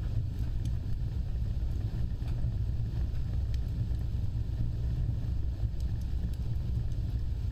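Wood fire burning, with a steady low rumble of flames and scattered sharp crackles and pops.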